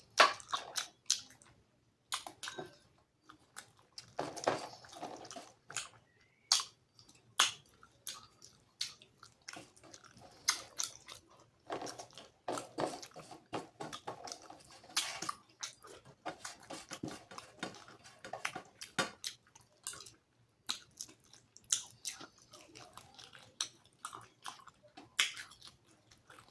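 Close-miked chewing of a rice-and-curry meal: a steady run of wet mouth smacks and clicks.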